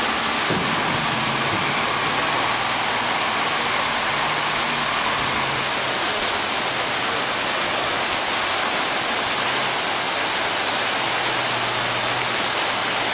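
Rushing river water, a steady loud hiss, with a faint low drone underneath.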